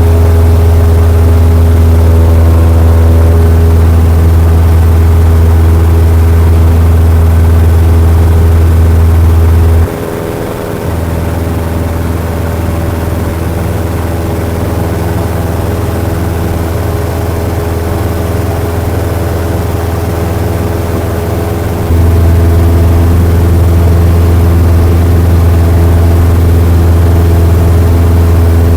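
Cessna 172 piston engine and propeller running steadily with a deep, even hum. The sound drops noticeably about ten seconds in and comes back up to full level about twelve seconds later.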